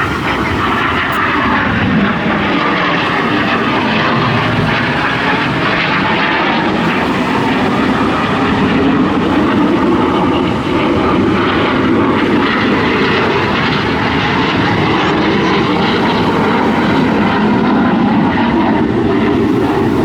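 Display aircraft flying overhead, a loud continuous engine noise with slow rises and falls in pitch as they pass.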